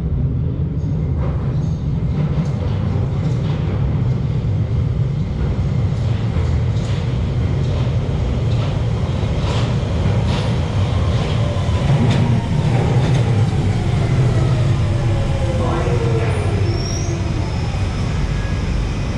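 A London Underground Central line train (1992 stock) running into the platform: a loud, steady rumble with repeated clicks of wheels over the rail joints, and from about two-thirds of the way in a whine falling in pitch as the train brakes.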